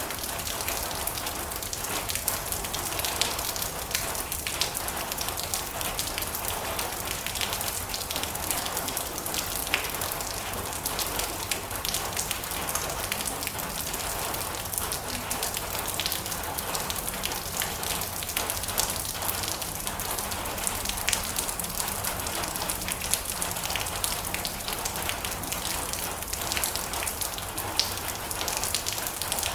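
Steady rain falling on a metal roof, a continuous hiss dotted with many sharp drop ticks.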